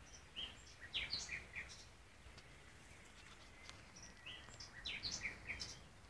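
A songbird singing the same short phrase of quick, high chirping notes twice, a few seconds apart, over faint outdoor background noise.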